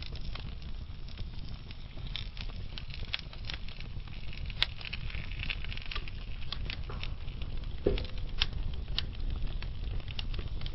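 Slow-burning wood fire in a fireplace: a steady low rumble with scattered sharp crackles and pops from the burning logs. One pop, about eight seconds in, is louder than the rest.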